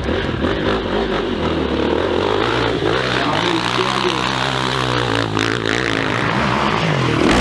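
Hill-climb motorcycle engine running hard, its pitch shifting up and down.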